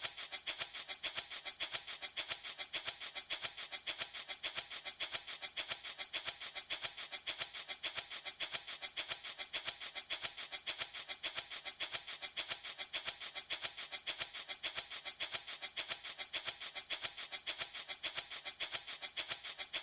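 Handmade baby rattle shaken in a steady, even rhythm, its loose beads giving a quick, bright, hissing rattle with each stroke.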